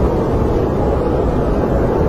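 Snowstorm wind blowing steadily: a loud, even rushing noise with a deep rumble.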